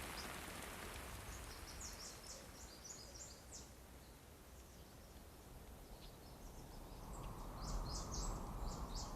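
Rain patter thinning out as the rain stops, with birds chirping in two short runs of high chirps.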